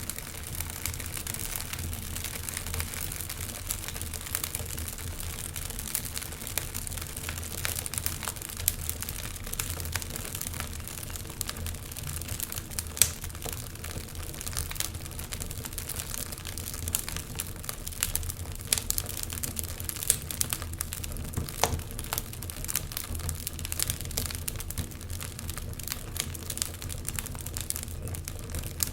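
Wood fire crackling, with frequent short snaps and pops, the loudest one a little before halfway through.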